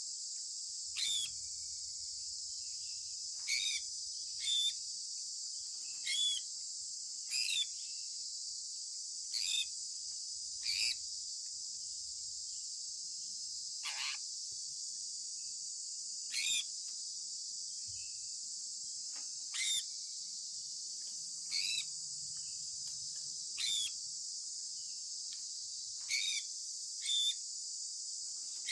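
Sun conure parrot giving short, sharp chirps every second or two, over a steady high-pitched hiss.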